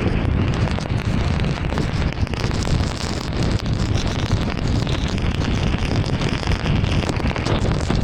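Heavy rain and a car driving through it: a steady noise of rain striking the car, with many small ticks of drops, over the low rumble of tyres on a wet road.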